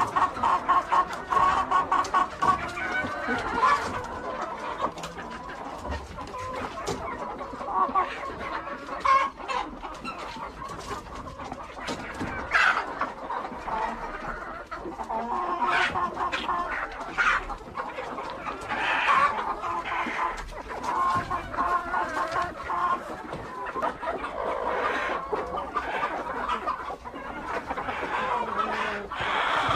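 A flock of domestic hens clucking, many short repeated clucks and calls overlapping, with a fast run of clucks at the start.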